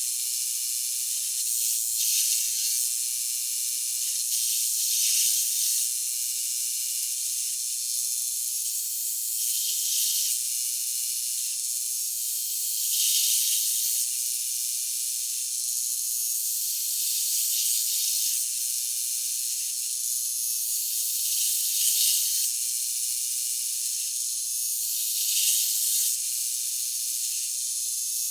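Electric drill boring spot-weld holes through sheet-metal inner rocker panels: a steady high hiss with a thin tone that stops briefly between holes and swells every three to four seconds as each hole is cut.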